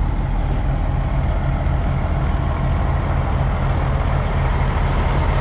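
Heavy diesel truck engine idling with a steady, even low rumble.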